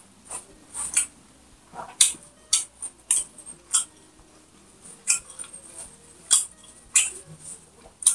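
Close-miked eating sounds: chewing with wet mouth smacks and clicks, irregular at about one or two a second.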